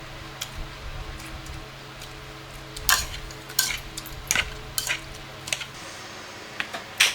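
Metal utensils clinking against pots and dishes: a series of sharp clinks about half a second to a second apart, starting about three seconds in. A low steady hum underneath stops about two-thirds of the way through.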